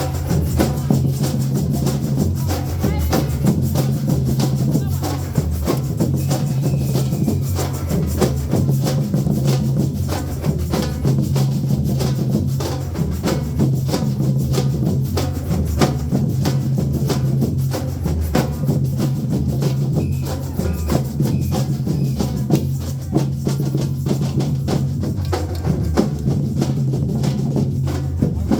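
A steel band's engine room, its percussion section, playing a fast, driving rhythm: drums over rapid, steady strikes of struck percussion.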